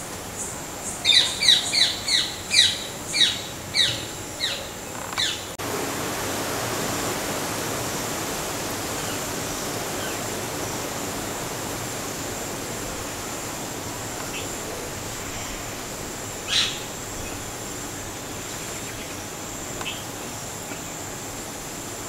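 Wild birds calling: a rapid run of about ten sharp, high, falling chirps in the first few seconds, then scattered fainter chirps and one sharp call near the end of the second third. A steady high insect buzz runs underneath.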